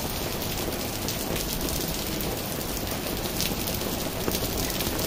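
Steady rain falling, with water pouring down from above.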